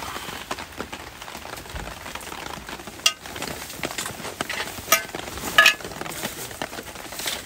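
Rain pattering steadily on tent fabric, with handling noises from camping gear being moved: a few sharp clinks that ring briefly, about three, five and five and a half seconds in, the last the loudest.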